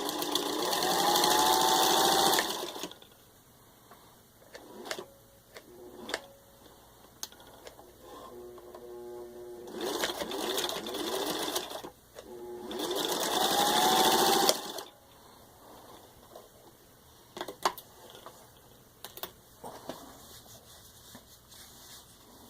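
1952 Singer 15-91 electric sewing machine stitching through six layers of denim, run in three bursts at full speed with the motor's pitch rising as it speeds up. Between the bursts it sews slowly, with scattered clicks of the mechanism.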